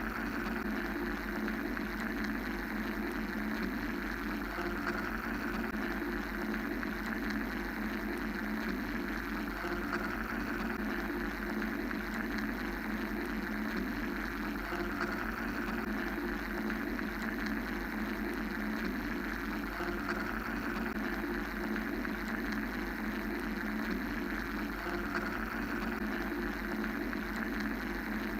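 Continuous mechanical white-noise drone: a steady low hum under a band of hiss that slowly swells and eases every few seconds.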